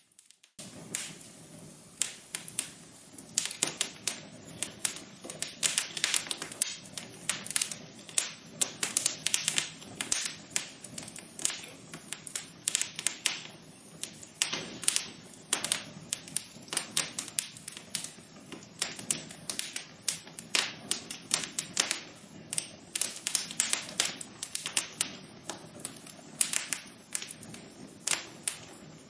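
Wood fire burning in a fireplace, crackling with dense, irregular sharp pops and snaps over a low steady hiss. The sound begins after a brief dropout right at the start.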